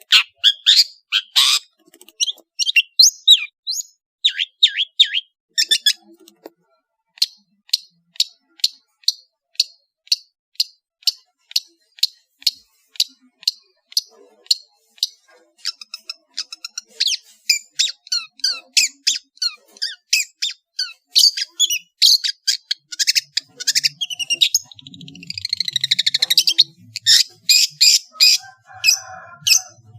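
Long-tailed shrike (cendet) singing a fast, varied song: a long run of sharp, high notes repeated two to three times a second, with swooping whistles near the start and a harsh, buzzy passage near the end.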